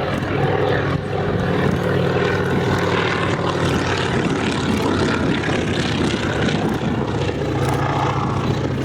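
Propeller aircraft engine running with a steady drone.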